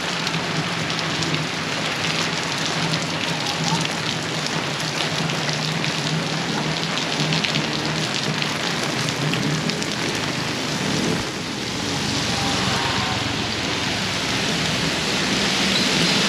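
Heavy tropical rain pouring down, a dense steady patter of drops hitting surfaces, swelling a little near the end.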